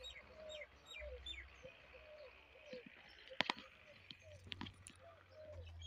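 Faint bird calls: a short low note repeated two to three times a second, with quick high chirps over it. A couple of sharp footsteps on a dirt path come about halfway through.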